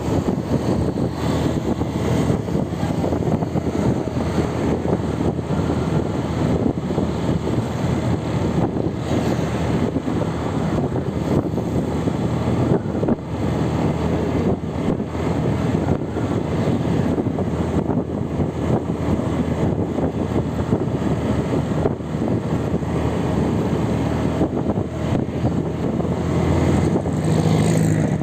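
Steady road-vehicle noise, engine and tyres on the road, with no sharp events.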